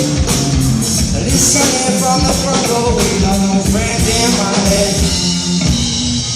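Live rock band playing loudly, with drums keeping a steady beat under guitar and other instruments; singing is heard along with the music.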